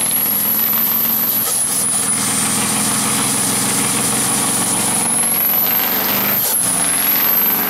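A truck engine held at high revs during a burnout: a loud, steady rush of engine and tyre noise with a thin high whine that wavers in pitch. The sound dips briefly about six and a half seconds in.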